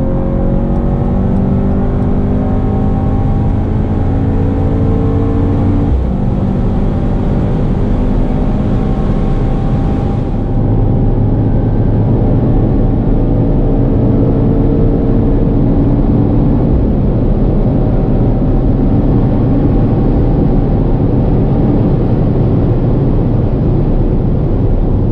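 Mercedes-AMG GT 63 S twin-turbo V8 under full throttle at high speed, with an upshift about six seconds in. After the shift the engine note climbs only slowly under steady, heavy wind and road noise.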